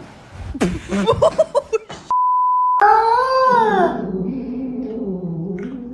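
A steady electronic bleep, a censor tone, lasts under a second about two seconds in. Right after it comes a pet's long drawn-out howling call that bends up and down in pitch, then holds nearly level.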